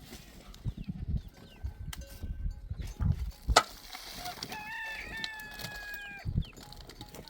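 A rooster crowing once, one long call of about a second and a half that falls away at its end. Scattered dull thuds are heard, and there is one sharp knock shortly before the crow.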